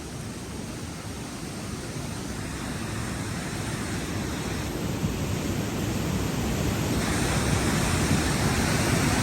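Rushing floodwater: a steady, full roar of fast-moving water that grows gradually louder.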